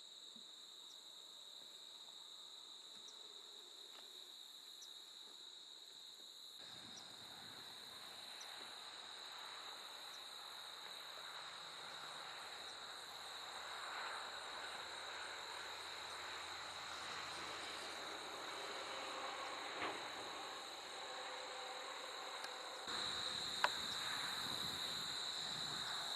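Insects trilling in a steady, high-pitched chorus that grows louder near the end, over a soft background hiss, with a sharp click near the end.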